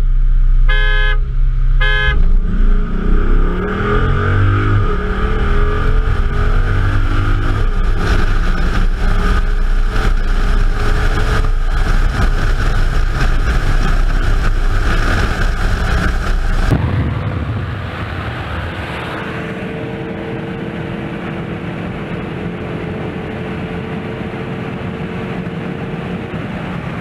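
Two short car-horn honks give the signal for a race from a stop. Then a car engine accelerates at full throttle, its pitch climbing and dropping through the gear changes under heavy wind noise. About two-thirds of the way in, the sound becomes a quieter, steady high-speed engine and road drone heard from inside a car.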